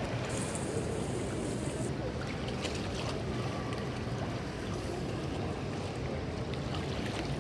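Steady wind noise on the microphone with water sounds around a small rowboat on a lake, plus a brief high hiss in the first two seconds.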